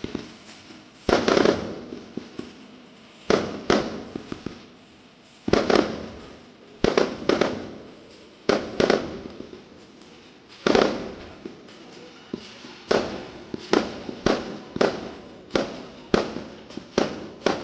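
Fireworks going off: a series of sharp bangs, each followed by a short fading rumble, some coming in quick pairs or threes and the bangs following closer together toward the end.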